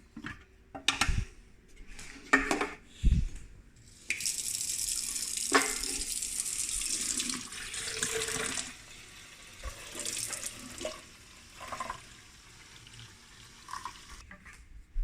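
Water running from a tap in a steady hiss for about four and a half seconds. It is preceded by several sharp knocks and clunks of handling, and followed by softer ones.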